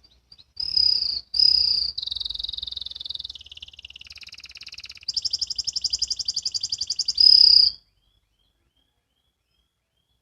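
Domestic canary singing a run of song phrases: two short bright whistled notes, then buzzy rolling passages, a fast trill, and a last bright note before it stops about eight seconds in.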